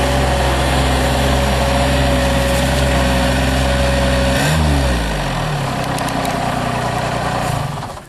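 Mini skid steer's diesel engine running with the hydraulic brush cutter engaged, a steady whine over the engine. About four and a half seconds in, the pitch falls as it slows, and it runs on at a lower level.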